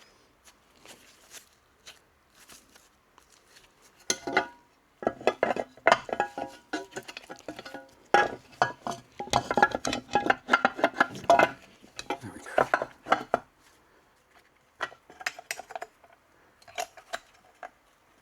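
Metal motorcycle engine parts clinking and knocking against each other as the engine cover and starter motor parts are fitted back together by hand. A dense run of quick clinks and taps in the middle, then a few scattered ones near the end.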